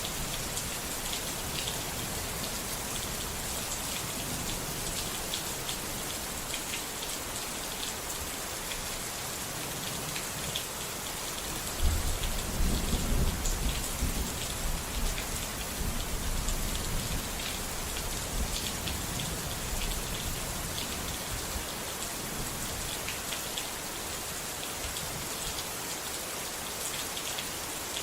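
Steady rain falling, with a roll of thunder that breaks suddenly about twelve seconds in and rumbles away over several seconds.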